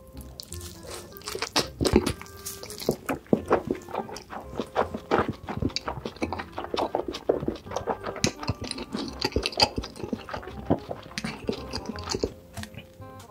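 Close-miked chewing and crunching of big mouthfuls of food, a dense run of irregular crunches, over background music.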